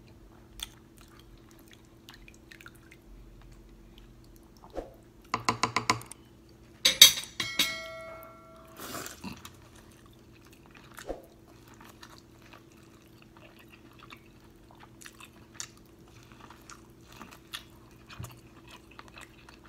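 Close-miked wet chewing and lip smacking from eating sauce-covered corn on the cob, in small scattered clicks. A quick run of smacks comes about five seconds in, and a louder wet burst follows about seven seconds in.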